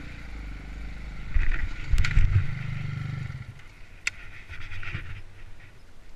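Dirt bike engine under throttle. It rises into a loud burst about a second and a half in and eases off after about three seconds, with a couple of sharp knocks in between.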